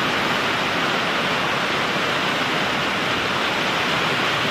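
Heavy thunderstorm rain pouring down, a loud, steady, even hiss with no break in it.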